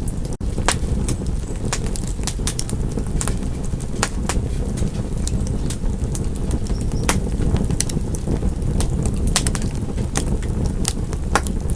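Wood fire crackling in a fireplace: irregular sharp pops and snaps over a steady low rumble of the flames, with a momentary dropout about half a second in.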